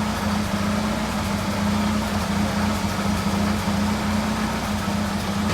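Chevrolet Chevette engine idling steadily with a constant hum and a noise from the clutch and gearbox area. The owner suspects a worn clutch disc or a gearbox low on oil.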